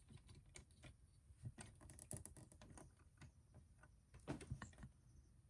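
Faint, scattered clicks and taps of hard plastic action-figure parts being handled and posed, with a quick cluster of clicks about four seconds in.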